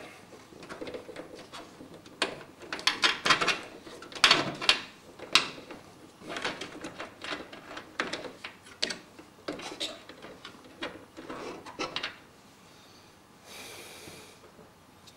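SATA data cable being pushed and threaded through a PC case's cable-routing holes: irregular clicks, knocks and scrapes of the cable and hands against the case. A brief soft hiss follows near the end.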